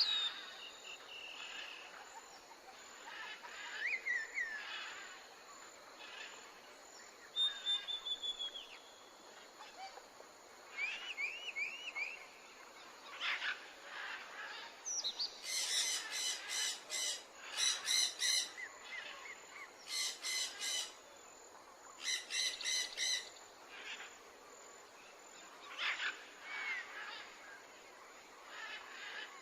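Birdsong ambience: various birds chirping and whistling over a faint outdoor hiss, with four bursts of rapid chattering notes about halfway through.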